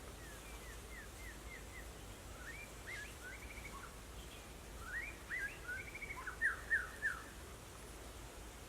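A songbird singing in phrases of quick chirps and short slurred whistles over a steady background hiss. The song grows louder in the last phrase and ends in three loud downslurred notes.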